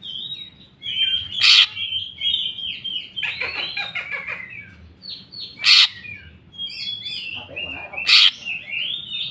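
Green leafbird (cucak ijo) singing a fast, varied run of chirps and warbles. It is broken three times, about every two and a half seconds, by a loud harsh note, as the bird runs through its repertoire of learned calls.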